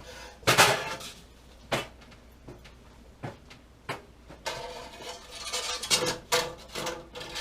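Metal tools clinking and clattering as they are rummaged through and handled, a few separate sharp clanks first, then a busier run of rattling in the second half.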